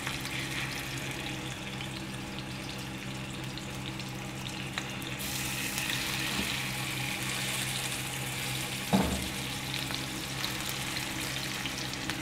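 Chicken reshmi kababs sizzling as they shallow-fry in oil in a frying pan, a steady hiss that grows louder about halfway through. A short knock comes about three quarters of the way in.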